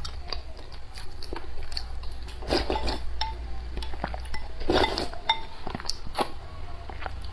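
Eating utensils clinking and knocking against a dish in irregular, scattered taps during a meal.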